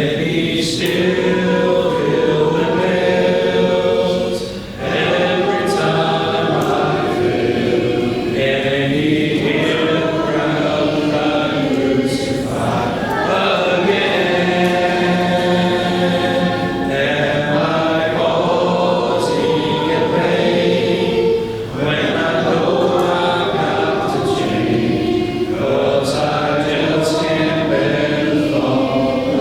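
A congregation singing a hymn a cappella, unaccompanied voices in sustained phrases. The men and the women sing two different parts at the same time.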